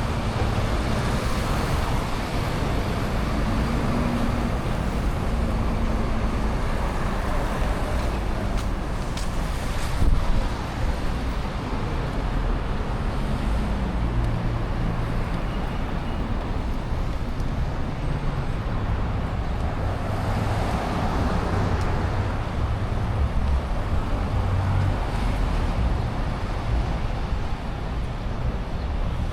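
City street traffic: motor vehicles running and passing, a steady rumble of engines and tyres with low engine hums, and one brief louder knock about ten seconds in.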